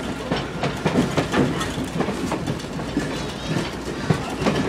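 Passenger cars of a heritage excursion train rolling along the track, the wheels clacking over the rail joints in an irregular rhythm over a steady rumble.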